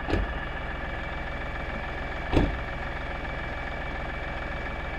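LS4135 compact tractor's diesel engine idling steadily, with two sharp knocks, the louder one about two seconds in.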